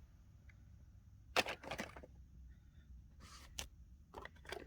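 A few scattered short clicks and light taps over a faint low hum; the first, about a second and a half in, is the loudest.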